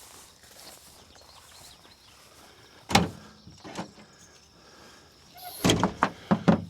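Clunks and knocks of gear being handled in the back of a pickup truck: one sharp thud about three seconds in, a lighter knock after it, then a quick cluster of knocks near the end.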